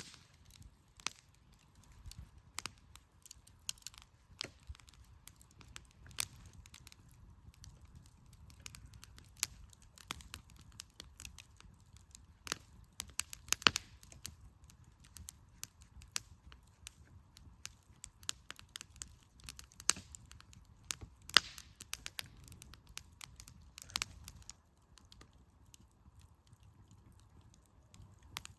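Firewood burning in a campfire, crackling with sharp, irregular pops, a few of them louder, over a faint low hiss; the pops thin out near the end.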